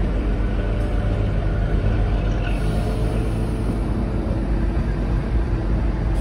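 Narrow-gauge mountain train running slowly, a steady low rumble of wheels and engine heard from an open coach window.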